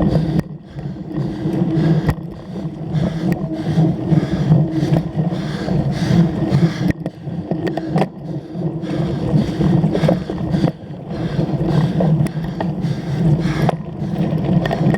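Cyclocross bike ridden hard over rough ground: a steady rumble of tyres and wind on the microphone that surges and dips every second or two, with a few sharp rattling knocks from the bike.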